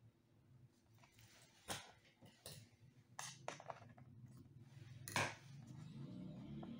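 Faint scattered clicks and rustles of hands working double-sided adhesive tape onto an iMac's display frame, the sharpest click about five seconds in, over a low hum that grows near the end.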